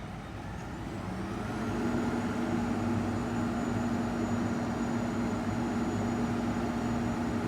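Garbage truck's diesel engine running, getting louder about a second in and then holding a steady hum.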